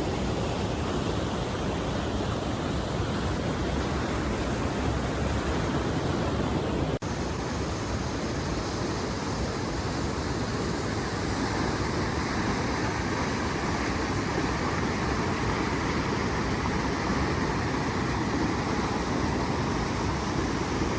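Rushing water of a large waterfall: a steady, dense noise, broken by a brief dip about seven seconds in where the shot cuts, then continuing as before.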